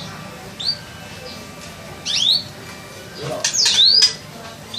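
Caged songbird giving short whistled chirps, single rising notes at first, then a louder run of falling and rising sweeps about three and a half seconds in.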